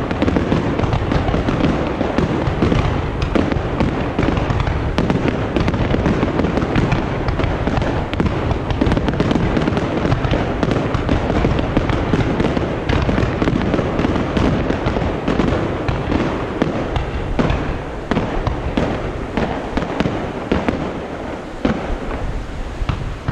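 Fireworks display: a dense, continuous barrage of bursts and crackling, easing slightly near the end.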